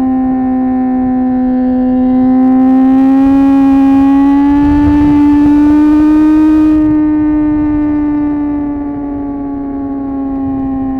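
Suzuki GSX-R 750's inline-four engine running at a steady high pitch while riding, the pitch rising slightly in the middle and easing back down, over low wind rumble.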